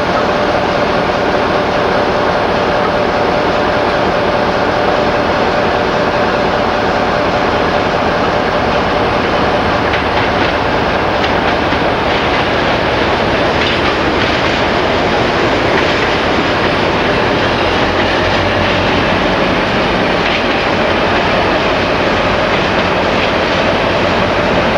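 A train hauled by a BR Class 60 diesel locomotive running past at a steady, loud level, its wheels clicking over the rail joints, with a steady whine under the rumble.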